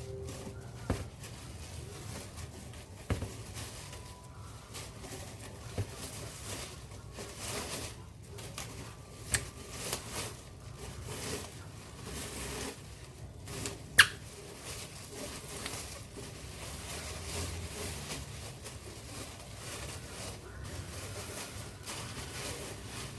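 Hands handling a new car tyre and its wrapping: light scratching and rustling with scattered clicks and knocks, the loudest a sharp click about fourteen seconds in.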